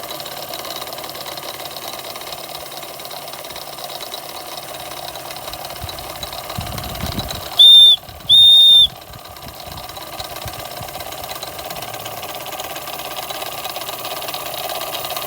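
Empire No. 92 toy steam engine, a single-acting oscillating cylinder on a vertical boiler, running steadily at its one fixed speed. About halfway through, two short, loud, high-pitched steam whistle blasts sound in quick succession.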